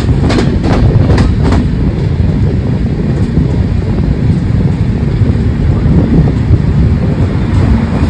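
Shatabdi Express passenger train running along a station platform: a loud, steady low rumble of the coach on the track, with a few sharp wheel clicks over rail joints in the first second and a half.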